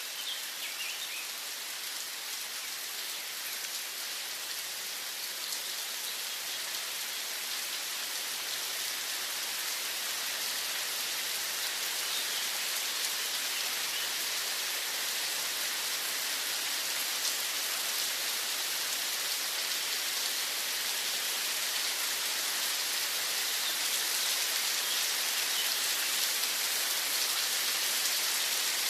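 Steady rain falling, an even hiss that slowly grows louder, with a few faint bird chirps near the start.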